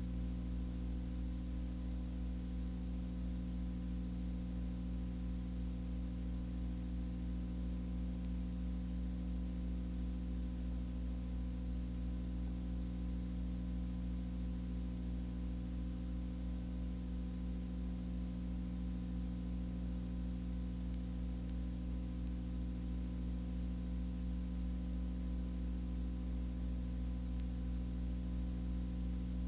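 Steady low hum made of several even tones, with a layer of hiss over it, unchanging throughout.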